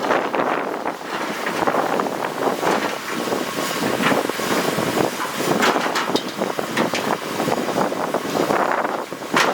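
Heavy earthmoving machinery at work: a continuous engine noise with frequent sharp clanks and crunches throughout.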